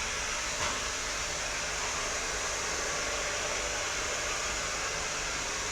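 Vacuum cleaner running steadily, a continuous rushing of air through the motor and hose, with a brief knock just over half a second in.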